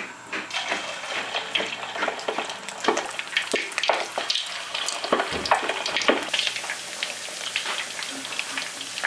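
Pork belly frying in hot oil in a wok on its first frying: sizzling with frequent crackles and pops, thickening into a dense steady sizzle about six seconds in.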